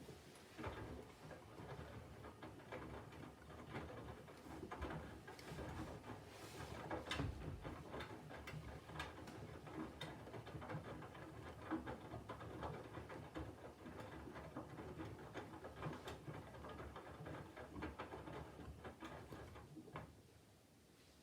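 Candy front-loading washing machine drum turning during its Mix Power System + phase, with wet laundry and water sloshing and tumbling and many light clicks and knocks. It stops about 20 seconds in.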